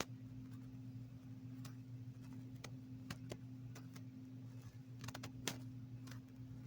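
A steady low hum with a few irregular faint clicks and ticks, the sharpest click a little past halfway.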